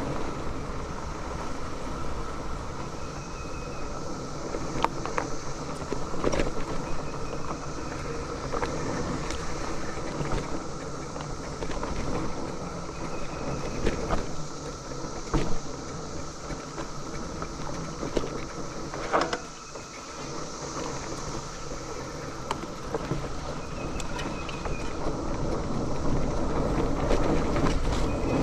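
Wind rushing over the microphone and the rattle and knocks of a mountain bike riding a dirt trail, with a chorus of cicadas buzzing behind that swells and fades.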